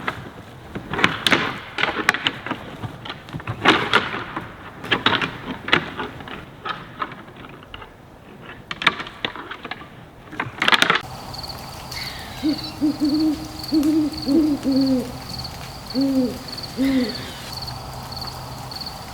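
An irregular series of sharp knocks and clicks, then, after a cut about eleven seconds in, an owl hooting in short groups of low, arching notes over a steady, rapidly pulsing high insect-like chirp.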